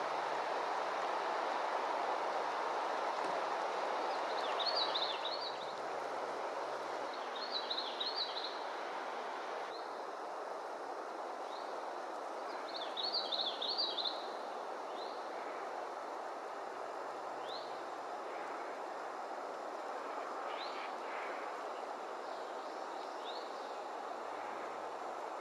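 A songbird sings three short, high trilled phrases a few seconds apart, then gives single short high notes spaced a few seconds apart. A steady rushing background noise runs beneath it.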